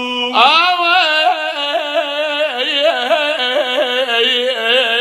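A long melismatic passage from an Arabic mawwal sung without words, one continuous line with many quick, wavering ornaments.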